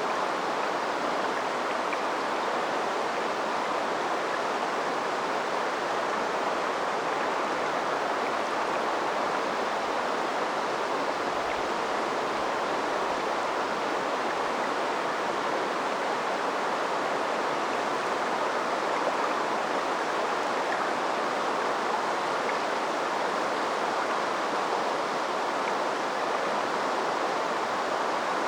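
A river flowing: a steady, even rush of water with no single splashes or breaks standing out.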